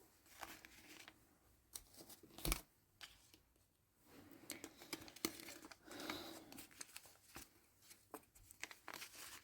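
Faint rustling of yarn being handled at the start of crocheting, with a few soft clicks. The sharpest click comes about two and a half seconds in.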